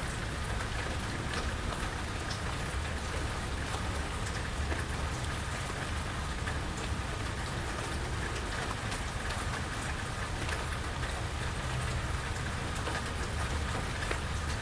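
Steady rain falling, with many scattered close drips ticking over it and a low, even rumble underneath.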